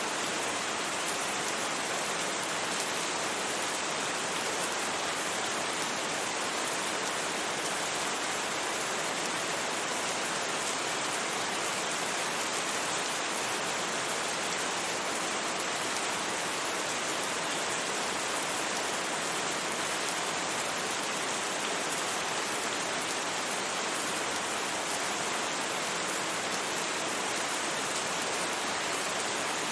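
Steady rain falling on a surface, an even hiss with no thunder and no changes in level.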